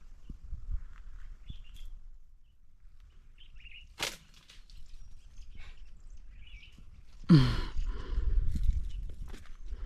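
Small birds chirping faintly in bush, a single sharp snap about four seconds in, then a louder rustling burst with a short low falling vocal sound about seven seconds in.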